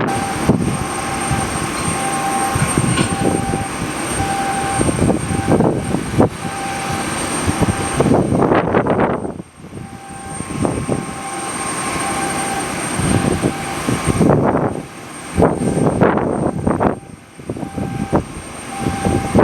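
Aircraft engines running with a steady whine, under strong wind gusts buffeting the microphone.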